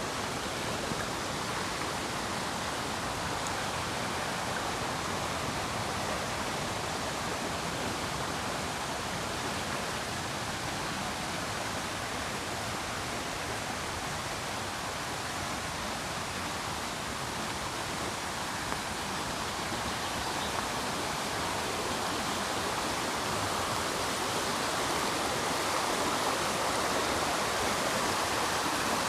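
Steady rush of river rapids, an even roar of flowing water that swells a little louder in the last few seconds.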